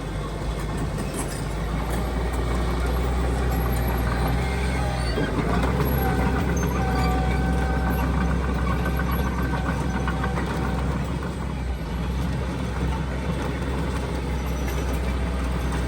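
Heavy diesel earthmoving machinery running steadily, with a steady whine from about five to ten seconds in.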